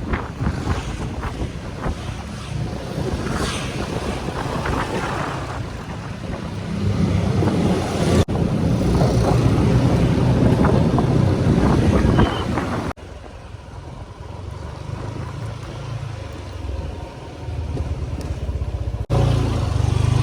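Motorcycle engine running on the move, with wind buffeting the microphone. The sound changes abruptly about eight, thirteen and nineteen seconds in, getting louder, then quieter, then louder again.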